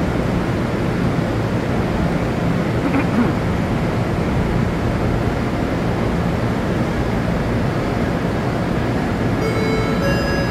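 Tze-Chiang express train pulling into a station, a steady rumble of wheels and running gear. Near the end, a series of steady tones begins, each step higher than the last.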